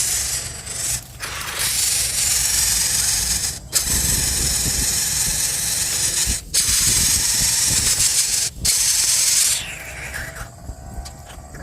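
Coucal chick hissing: about five long, loud hisses, each a couple of seconds, separated by brief breaks. The last one tapers off about ten seconds in.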